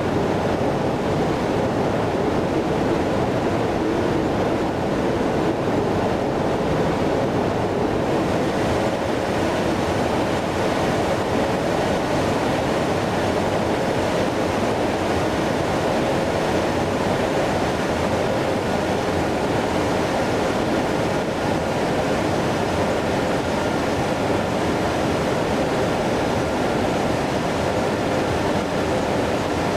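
Airbus A330-300 jet airliner in flight: a steady, unchanging roar of engines and rushing air, with a few faint steady tones above it.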